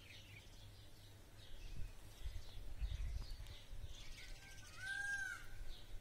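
Small birds chirp and twitter outdoors. One longer call rises and falls about five seconds in. A low rumble on the microphone starts about two seconds in.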